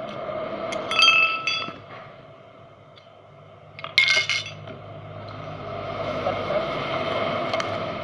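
Metal ceiling-fan parts clinking as they are handled during disassembly: two ringing clinks, about a second in and about four seconds in, with a few lighter taps, over a steady background hum.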